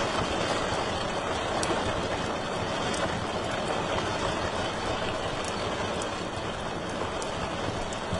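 Wood fire crackling in a fireplace: a steady hiss with scattered sharp pops every second or two.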